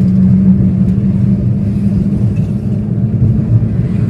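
Steady low hum from a car's wheels while driving at speed, over road and engine rumble, the hum fading somewhat near the end. It is the humming fault being diagnosed: the tyres are new and evenly worn, so the mechanic suspects a worn wheel bearing.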